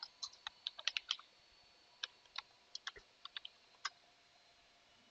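Computer keyboard keys being typed, in two quick runs of keystrokes about a second apart, the second run more spaced out.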